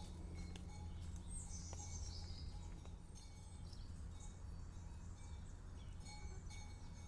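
Faint birds chirping, with one high call falling in pitch about a second in, over a steady low background rumble.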